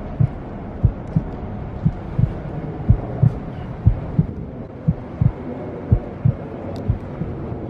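Heartbeat sound: low double thumps, lub-dub, about one beat a second, over a steady low hum.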